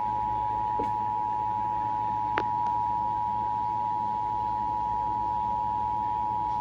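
Emergency Alert System attention signal: a steady two-tone alarm, two close pitches just under 1 kHz held together, announcing a National Weather Service severe thunderstorm warning over broadcast TV.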